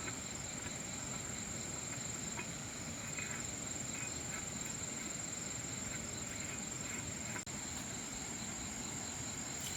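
Crickets trilling steadily in one continuous high tone, over a low, even background noise.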